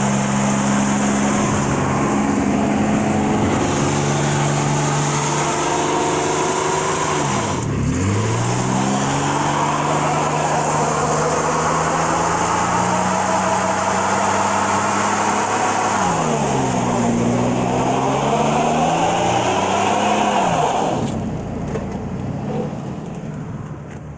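Truck engine held at high revs during a burnout, with the spun rear tires hissing against the pavement. The revs dip and climb back twice, then the engine lets off near the end.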